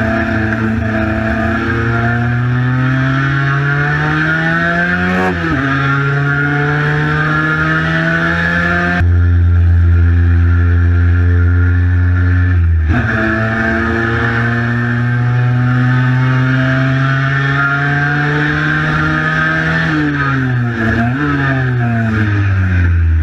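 Cagiva Mito 125 single-cylinder two-stroke engine under hard acceleration. The pitch climbs and drops sharply at each upshift, holds steady for a few seconds, then climbs again and falls with short blips near the end as the bike slows and changes down.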